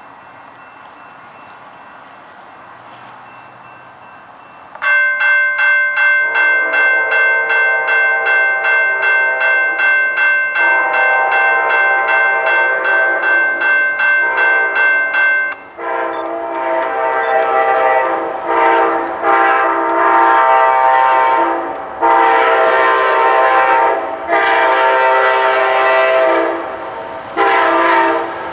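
Freight locomotive air horn blowing, starting about five seconds in with a long blast. Near the middle its pitch drops as the locomotive passes, and it carries on as several long blasts with short breaks.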